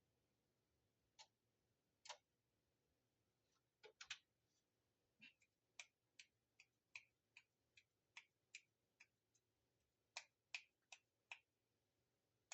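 Faint clicks in near silence: a few scattered ones at first, then a fairly even ticking of about two to three a second.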